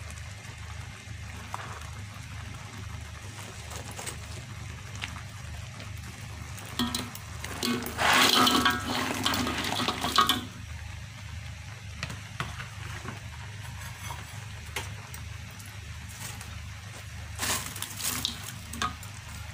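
Crisp fried battered squid pieces tipped into salted-egg sauce in a wok, with a loud sizzling, rattling rush for about two seconds partway through. Near the end a spatula scrapes and taps the wok as the pieces are stirred, over a steady low hum.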